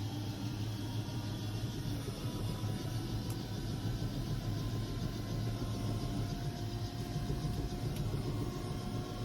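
Bell 206L-4 LongRanger helicopter running after engine start: the Rolls-Royce 250 turboshaft and turning rotor make a steady rumble with a faint whine above it.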